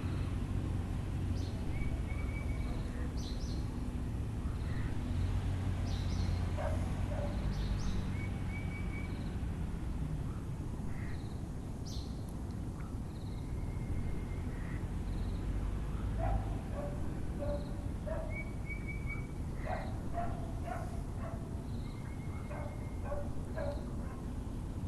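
Several birds calling over a steady low rumble of background noise: clusters of short repeated low notes, typical of a Müller's (Taiwan) barbet, brief trilled notes every few seconds and occasional sharp chirps, with a dog barking in the distance.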